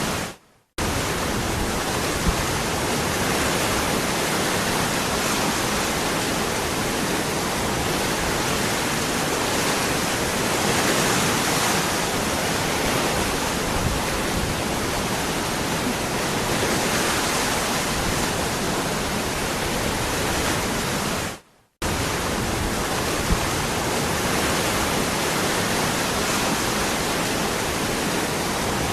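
Waterfall rushing: a steady, even roar of falling water across all pitches. It cuts out abruptly to silence for under a second twice, just after the start and about 21 seconds in, each time resuming at full level.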